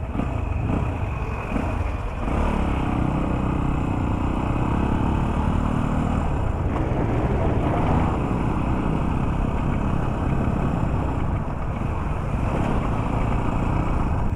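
Motorcycle engine running at a steady pace while riding, with no sharp changes in speed.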